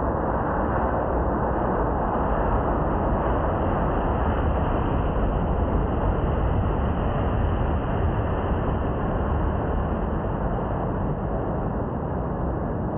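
Jet airliner's engine roar, a steady rumble that swells slightly and eases off a little near the end.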